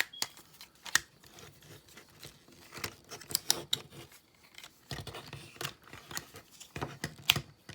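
Plastic parts of a Studio Series Long Haul Transformers figure clicking and rattling as they are handled through a transformation step: an irregular string of small, sharp clicks and taps as a side panel is pulled from the arm, slid, flipped down and pushed back into place.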